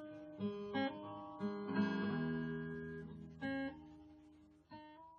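Acoustic guitar music: plucked notes and strummed chords struck and left to ring out, with one more chord struck near the end.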